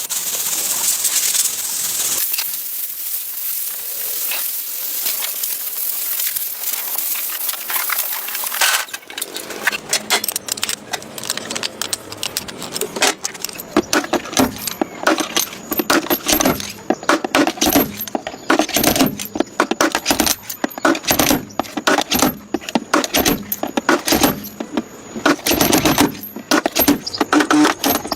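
A power tool runs with a steady high hiss, then stops about nine seconds in. Rapid, irregular metallic clicking and scraping follows, as from hand tools working on car body metal.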